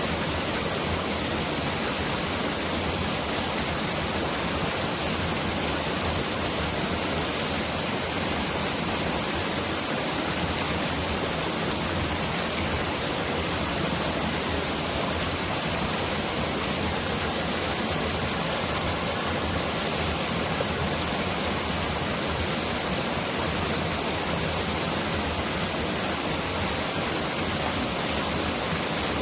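Mountain valley stream rushing steadily over rocks, a dense, even hiss of running water like heavy rain.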